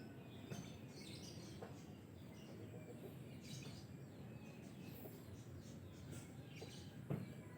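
Faint, scattered high-pitched bird chirps, with a few soft clicks and one sharper tap about seven seconds in.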